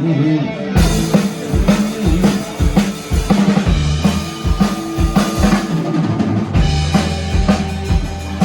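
Live band playing loud: a guitar figure, then the full drum kit comes in about a second in with a steady kick-and-snare beat over a bass line.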